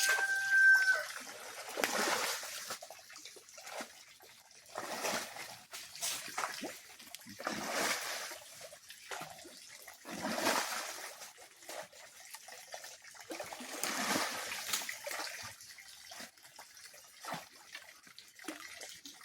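Water splashing and trickling in irregular bursts a couple of seconds apart as a fish pond is being cleaned out.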